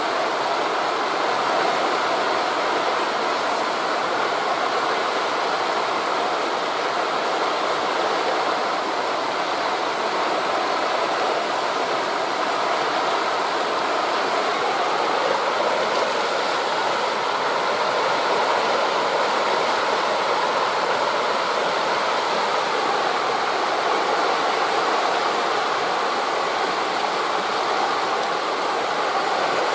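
Steady rushing of wind through forest leaves blended with distant sea surf, even in level, with no separate wave crashes standing out.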